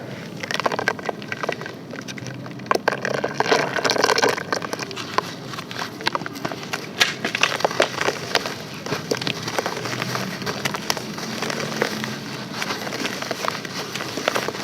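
Pressed sand-and-charcoal being crushed and crumbled, a dense run of small sharp cracks and crunches over a gritty rustle.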